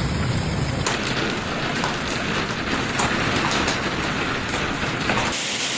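Heavy storm rain pouring, a steady loud rush whose character changes abruptly about a second in and again near the end, with scattered sharp hits in the middle stretch.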